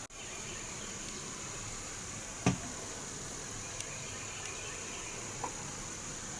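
Steady outdoor background with a high-pitched, insect-like drone, and one sharp click or tap about two and a half seconds in.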